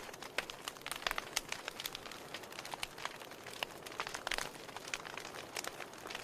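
Fireplace fire crackling: frequent irregular sharp pops and snaps over a soft steady hiss.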